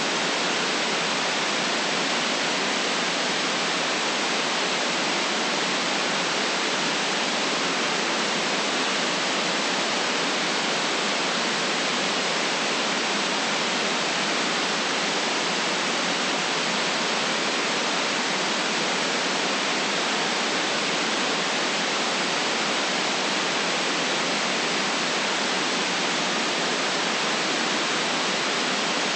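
Steady white noise: an even, unbroken hiss with no bass and no change in level.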